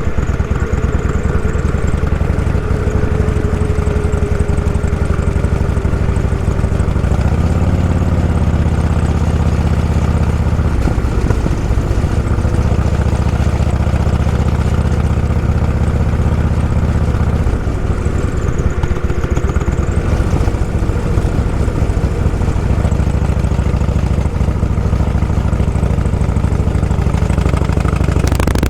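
Motorcycle engine running steadily while riding, with a low, fast pulsing throughout. The engine note shifts slightly twice, about a third and two thirds of the way through.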